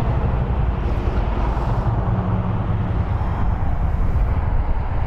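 Harley-Davidson Sportster 1200's fuel-injected 1200cc V-twin idling steadily through aftermarket Rinehart staggered exhaust pipes, with a fast, deep, even pulse.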